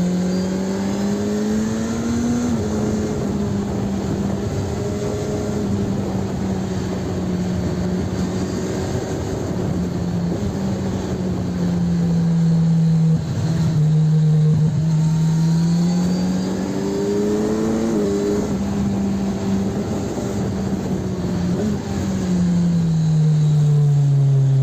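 Kawasaki Ninja 1000SX inline-four running through an aftermarket Arrow exhaust while riding on the road. The engine note holds steady, then climbs and sags gently several times as the throttle changes, and falls away near the end, over a constant rush of wind and road noise.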